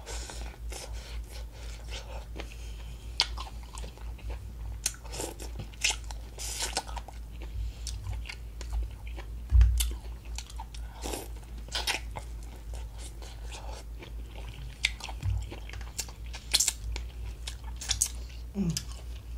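A person biting and chewing food dipped in seafood-boil-style sauce, with many short, sharp mouth clicks, over a steady low hum.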